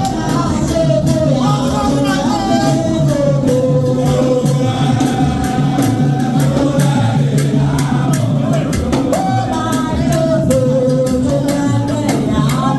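Group singing over music with a steady percussion beat.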